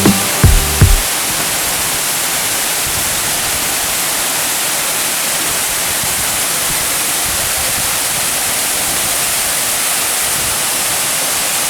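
Waterfall swollen by rainy-season flow: a steady rush of falling water. A few notes of music end about a second in.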